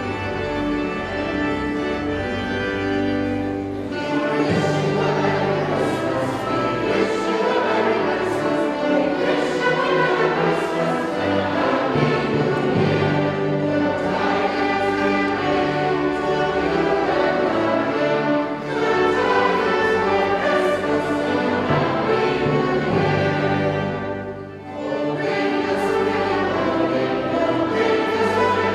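Choir singing with orchestral accompaniment. Sustained organ-like chords open, and the full choir and orchestra come in about four seconds in, with a brief drop near the end.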